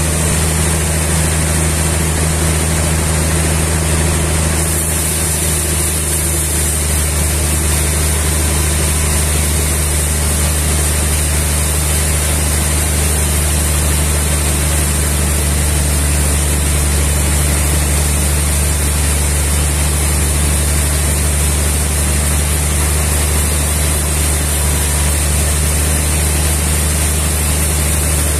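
Sawmill machinery running steadily, a continuous engine hum under a broad noisy whir, with a slight change in its sound about five seconds in.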